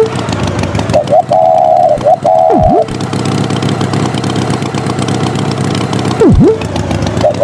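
Cartoon sound effects: a steady engine hum with a warbling, horn-like two-note tone about a second in and again near the end. Twice a quick swoop drops steeply in pitch and springs back up.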